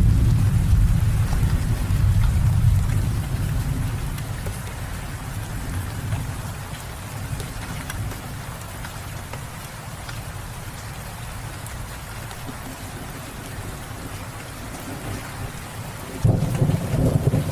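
Steady rain with thunder. A deep rumble at the start fades away over the first few seconds, and a new roll of thunder breaks in suddenly near the end.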